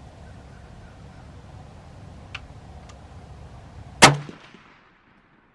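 A single rifle shot from a PSL chambered in 7.62x54R, about four seconds in, with a short ringing tail. Two faint clicks come before it.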